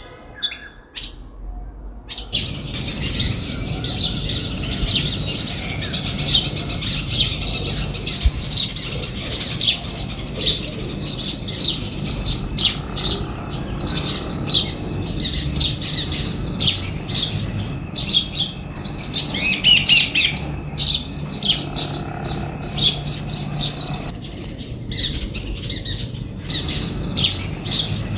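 Small birds chirping and twittering, a dense run of short, high chirps that starts about two seconds in and thins out briefly near the end.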